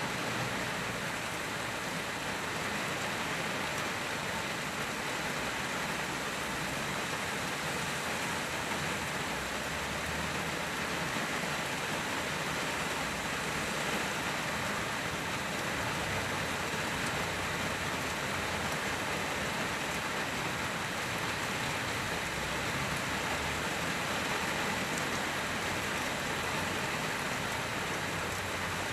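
Steady rain on a car's windshield heard from inside the car: an even patter, with rainwater gurgling on the glass.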